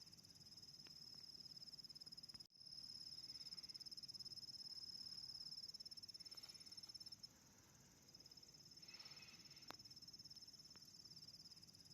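Faint, steady high-pitched trill of crickets, a fast pulsing chirr that breaks off for an instant about two and a half seconds in and drops away for about a second past the middle before returning.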